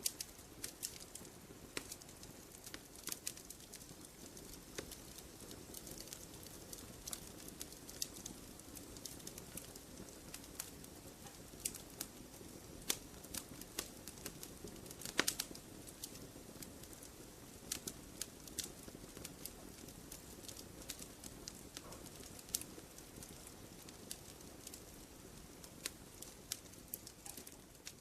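Wood fire crackling in a fireplace: irregular sharp pops and snaps over a low, steady rush of flame, with one louder pop about halfway through.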